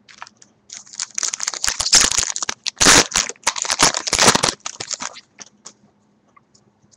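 A foil trading-card pack wrapper being torn open and crinkled in the hands: a few seconds of dense crackling, loudest near the middle, tailing off into a few small ticks.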